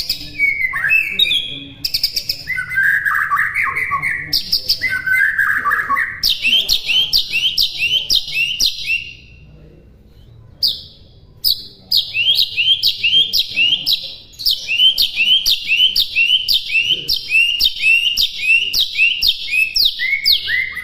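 White-rumped shama (murai batu) singing: two warbled phrases, then long runs of sharp, quickly falling high notes repeated two to three times a second, with a short lull midway.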